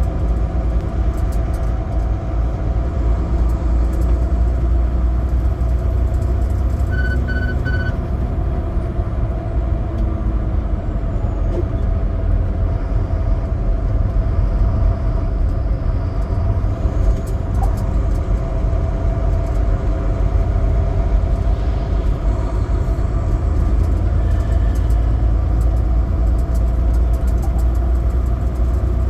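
Semi truck's diesel engine running steadily while driving, with a constant low rumble of engine and road. About seven seconds in, three short high beeps sound in quick succession.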